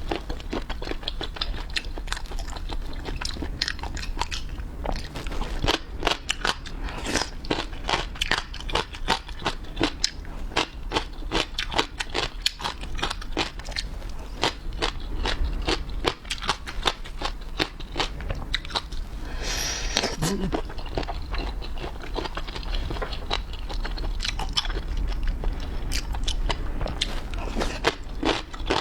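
Close-miked eating sounds: irregular crunching, biting and wet chewing of seafood, with a brief hiss about twenty seconds in.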